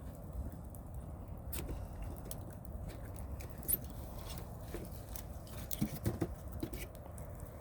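Wood campfire crackling: irregular pops and snaps over a low steady rumble, with a sharp pop about halfway through and a quick cluster of snaps soon after.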